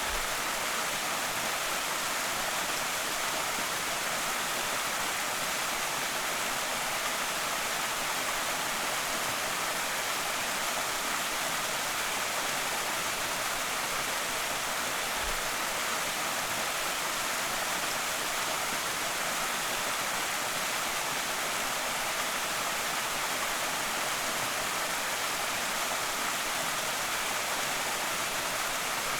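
Waterfall on a small creek: a steady, unbroken rush of falling water.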